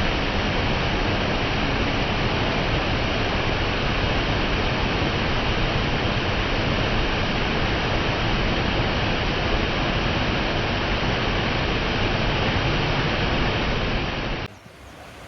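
Waterfall pouring: a steady, loud rushing of falling water that cuts off abruptly near the end.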